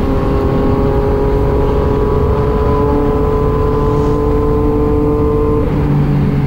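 Yamaha MT-09's three-cylinder engine held at steady high revs at speed, its pitch creeping slowly up, then dropping suddenly near the end as the revs fall. Heavy wind rush on the microphone runs underneath.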